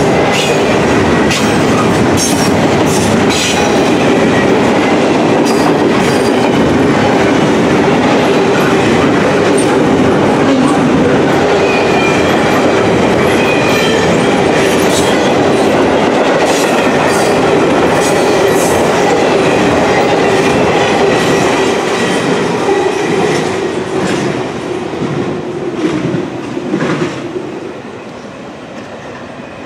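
Double-stack intermodal container train's well cars rolling past close by: a steady rumble of wheels on rail with rapid clicks and clanks at the rail joints and a thin wheel squeal at times. The noise fades over the last several seconds as the end of the train goes by.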